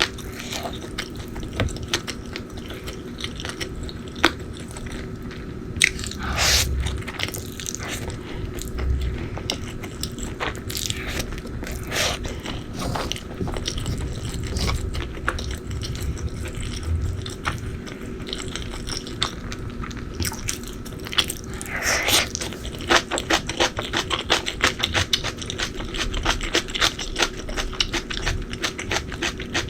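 Close-miked eating: biting and chewing with crisp crunches and wet mouth sounds, growing into a quick run of sharp crunching bites in the last third.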